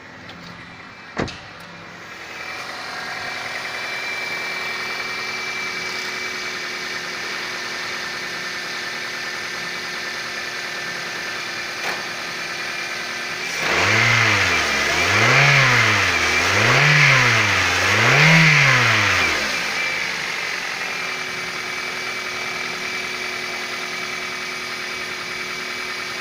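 Toyota 1ZZ-FE 1.8-litre four-cylinder engine idling steadily, then revved three times in quick succession about halfway through, each rev rising and falling in pitch before it settles back to idle. It is being run on a test of the used engine at idle and mid revs. A sharp click sounds just after the start.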